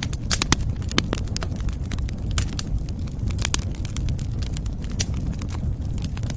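Wood fire crackling in a fireplace, with many irregular sharp pops and snaps over a steady low rumble of the flames.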